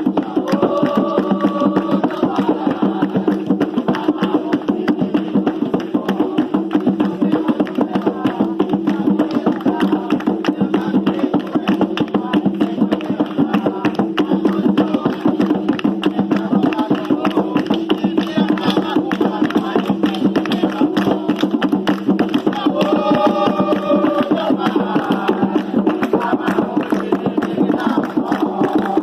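Music with a fast, steady percussion beat throughout, and brief held tones about a second in and again around 23 seconds.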